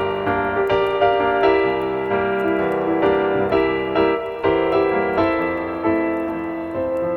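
Soft ambient piano music: a keyboard playing a slow run of sustained, ringing notes, a new note about every half second.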